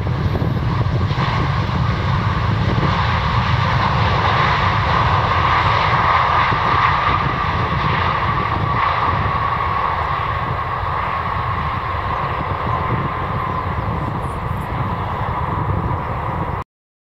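Jet engines of a Singapore Airlines Airbus A350-900 (Rolls-Royce Trent XWB) going by, a loud steady rumble under a whine that swells around the middle and then eases. The sound cuts off abruptly near the end.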